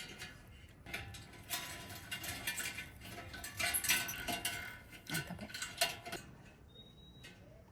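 Knocks, clinks and scrapes of stones and a steel car wheel being handled while a fire pit is put together, with several sharp clinks over the first six seconds. It then goes quieter, with a short high whistle-like note near the end.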